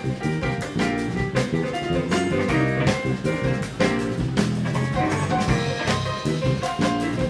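Live jazz band playing an up-tempo number: a drum kit keeping time under quick runs of notes on keys.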